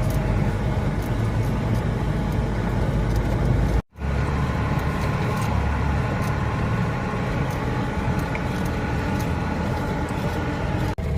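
UAZ off-roader driving, its engine running steadily. The sound cuts out abruptly for a moment about four seconds in, then resumes, with another brief dip near the end.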